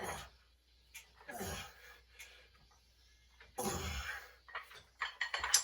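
A person's forceful breaths during a lifting set, one noisy burst about every one and a half to two seconds. A few short sharp clicks come near the end.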